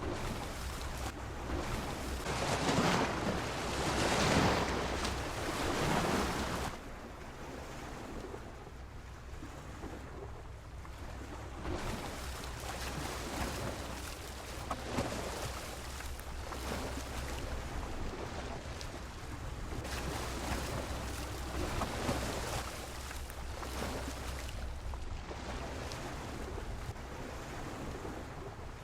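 Sea waves washing against a pier, with a big surge in the first few seconds and then smaller washes every few seconds. A steady low wind rumble on the microphone runs underneath.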